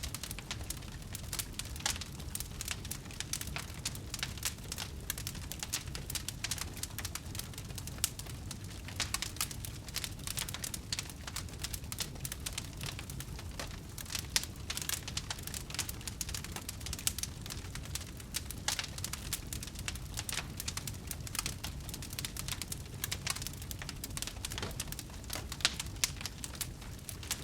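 Wood fire crackling: a steady stream of sharp pops and snaps over a low rumble of the flames, with a few louder snaps.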